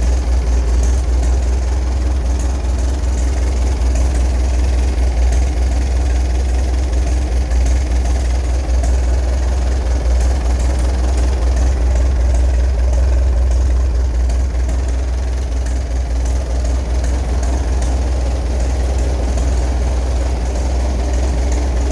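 The engine of a 1926 Huber tractor, back in running order after sitting more than 20 years, running steadily at idle with an even low firing beat.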